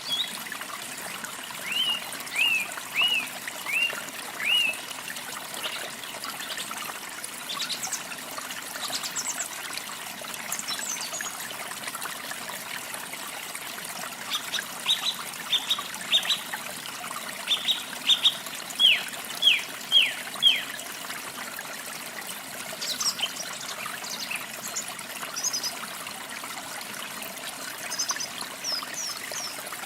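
Water trickling steadily, with songbirds calling over it: runs of short, sharp down-slurred notes a couple of seconds in and again in the middle, and thin high chirps near the end.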